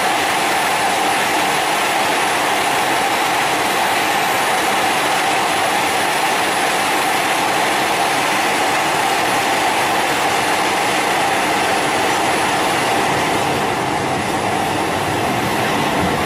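Italo AGV high-speed electric train running past, a steady rushing noise with a strong hum in the middle range.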